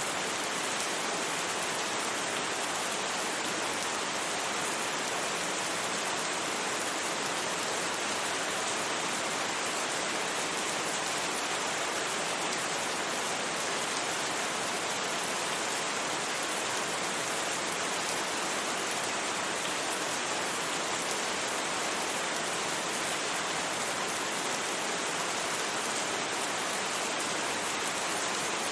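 Steady rain falling and pattering on surfaces, an even hiss with no thunder and no changes.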